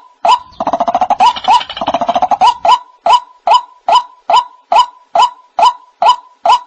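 White-breasted waterhen calling: short, loud, pitched notes repeated several times a second. About half a second in, a fast churring rattle runs under them for about two seconds, then the plain repeated notes go on.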